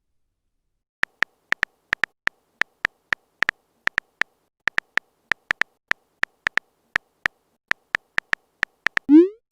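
Phone keyboard typing sound effect: quick short ticks at an uneven pace, like a message being typed out, ending with a quick rising swoosh near the end as the message is sent.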